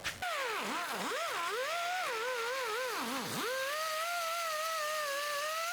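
A single sliding musical tone, theremin-like, that swoops deeply down and up several times, then wavers and slowly climbs in pitch.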